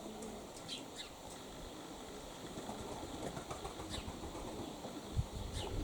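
Wind buffeting the microphone, the low rumble swelling near the end, with a few short high bird chirps now and then.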